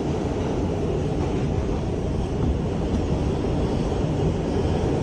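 Subway train running between stations, a steady low rumble of wheels and motors heard from inside the car.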